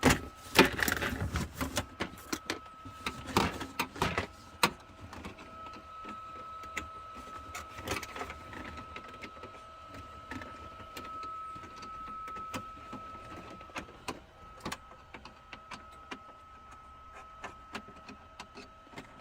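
Screwdriver and loose hardware clicking and knocking as screws are taken out, busiest in the first few seconds and then only now and then. A faint steady high whine runs underneath.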